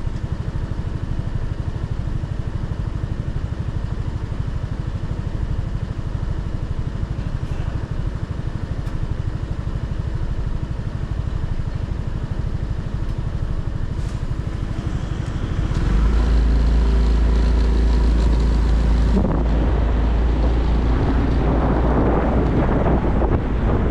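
Motorcycle engine running steadily at low revs for about sixteen seconds, then getting louder as the bike pulls away and accelerates, with wind noise on the microphone building near the end.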